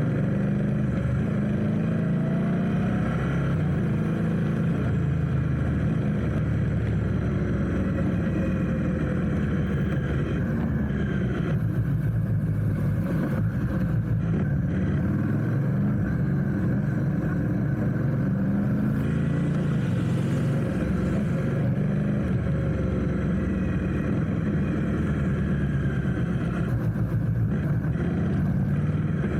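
Motorcycle engine running in traffic, its pitch rising and falling as it speeds up and slows, over a steady low wind rumble.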